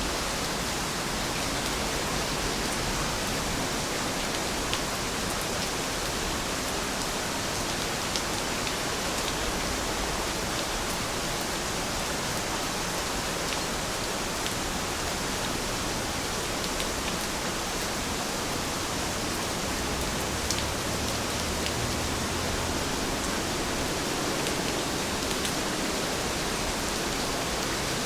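Heavy rain falling steadily, a dense even hiss with a few louder drops standing out as sharp ticks.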